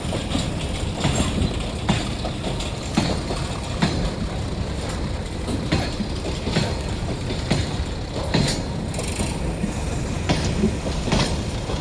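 Train passing on the track, its wheels knocking over rail joints roughly once a second over a steady rumble.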